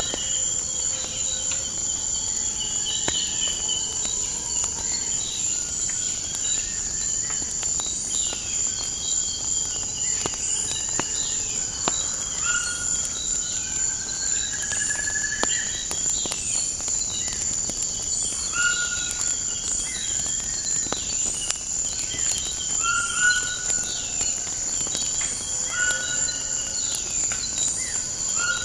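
Nature ambience: a steady high-pitched insect drone with chirps repeating about every second and a half, several birds calling and singing, and scattered small pops and crackles of a wood fire.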